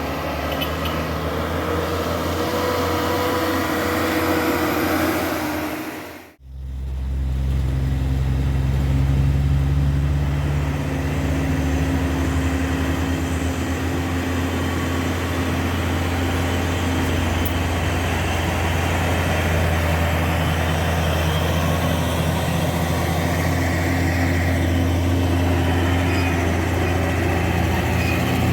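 Heavy truck engine running steadily under load, a deep steady drone; the sound cuts abruptly about six seconds in and resumes as a louder, deeper engine note.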